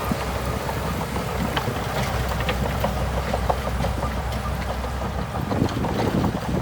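Bulldozer's diesel engine running steadily with a low rumble and scattered short clicks and clanks; the sound shifts about five seconds in.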